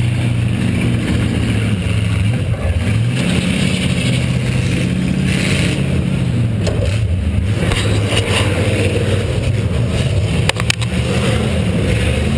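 V8 engine of a demolition derby car running loud and steady under throttle, with a few sharp knocks in the second half, the strongest about ten and a half seconds in.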